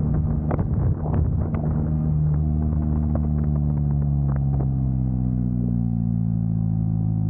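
Honda D-series four-cylinder engine of a 2000 Honda Civic running while driving, with a few sharp knocks in the first two seconds. Its revs fall slowly over the second half.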